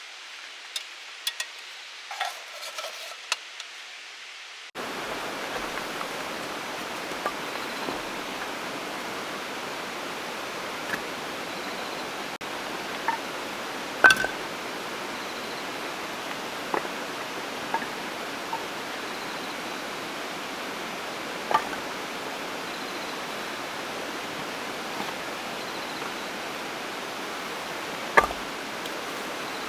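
Steady rushing water noise outdoors, rain or a nearby river, that gets louder suddenly about five seconds in, with scattered light clicks and taps over it.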